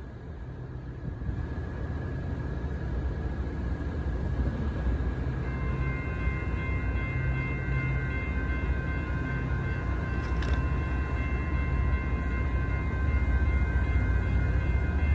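Low diesel rumble of an approaching MBTA commuter train's locomotive, growing gradually louder as it nears. A few steady high tones join about five seconds in and hold on.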